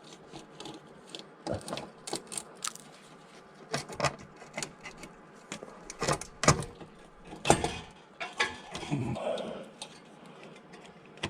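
Scattered metallic clicks, clinks and knocks of hand tools working on car parts, with the loudest knocks about six to seven and a half seconds in and a brief scrape near nine seconds.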